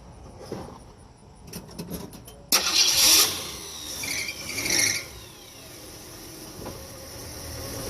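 A 1966 Ford Mustang's engine starting: a few clicks, then it cranks and fires suddenly about two and a half seconds in, is revved briefly, and settles into a steady idle.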